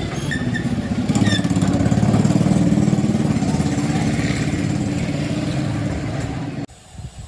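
An engine running steadily with a fast, even pulse, cutting off suddenly near the end.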